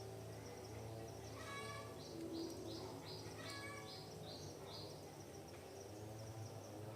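Birds calling: a call made of many stacked tones repeats about every two seconds, and a run of about six quick high notes comes in the middle. A steady low hum runs underneath.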